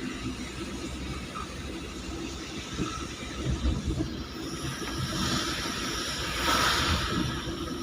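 Low, steady vehicle rumble, with a hiss that swells and then fades about five to seven and a half seconds in.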